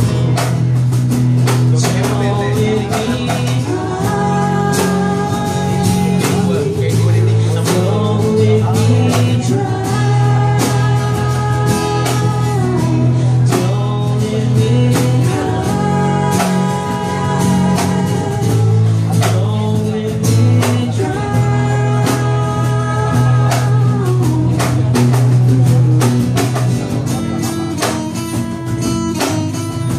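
Live band music, an instrumental break with strummed guitar and a held melody line that swells in about every six seconds.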